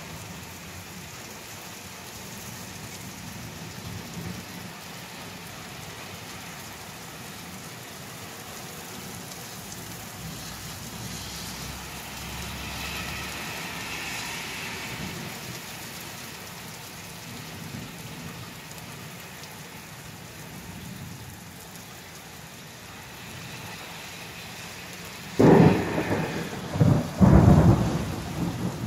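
Steady rain falling, then near the end a sudden loud clap of thunder that rumbles on in several peaks.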